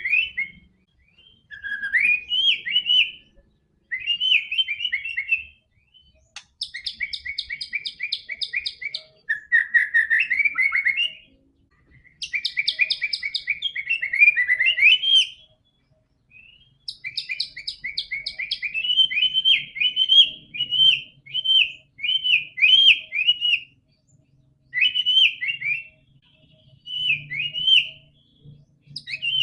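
White-rumped shama (murai batu) in full song: a run of varied whistled phrases with short pauses between them, several broken up by fast trills of repeated notes.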